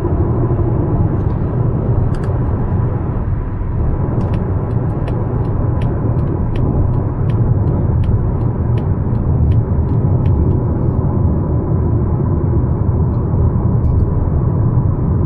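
Cabin noise of a Mazda CX-5 on the move: steady road and tyre rumble mixed with the engine's hum. From about four seconds in to about eleven seconds, a regular ticking runs at about two ticks a second, typical of the turn-signal indicator.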